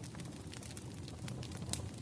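Campfire burning: a steady low rumble of flames with frequent sharp wood crackles and pops, one louder pop near the end.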